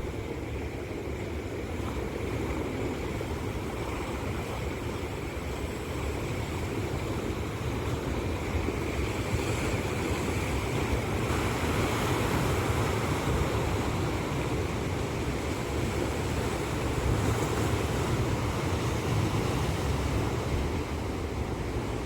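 Sea waves breaking and washing on the shore, a continuous surf that swells a little louder around the middle.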